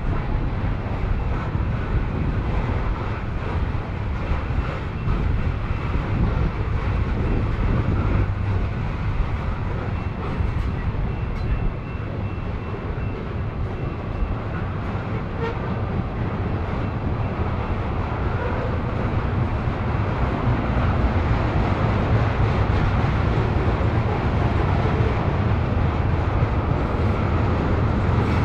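Freight train of tank cars rolling past: a steady rumble of steel wheels on the rails, growing a little louder in the last third.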